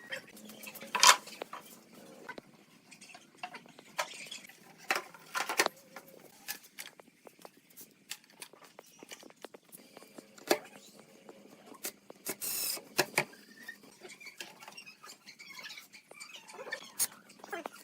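Workshop handling sounds: scattered light taps, clicks and knocks of tools and wood pieces, with a sharper knock about a second in and a short scraping rasp about twelve seconds in.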